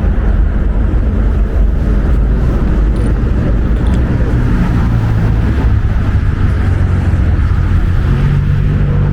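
Wind buffeting the microphone in a steady, loud low rumble over city street noise, with a low engine hum coming in about halfway.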